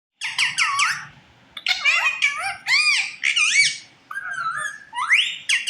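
A pet parrot chattering: quick high-pitched calls that sweep up and down in pitch, in three bouts with short pauses between, with a long rising whistle near the end.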